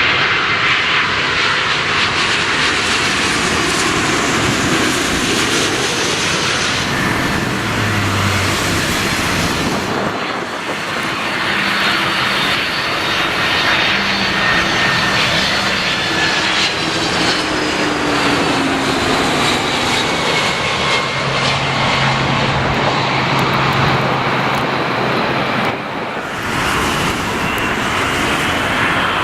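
Jet airliner engines running loud and close, a steady roar with high turbine whines that slowly slide in pitch. The sound changes abruptly about a third of the way in and again near the end as one aircraft gives way to another.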